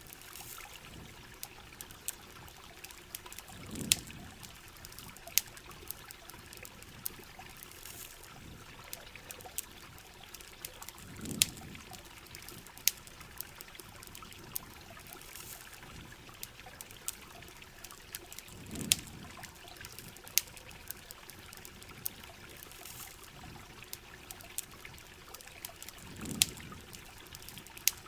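Steady heavy rain and trickling water mixed with a campfire's frequent sharp crackles and pops. A soft low rumble swells four times, about every seven and a half seconds.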